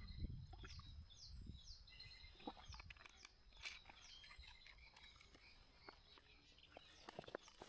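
Faint birdsong in quiet woodland: short, high, downward-sliding chirps repeated several times in the first few seconds, with a few small scattered clicks.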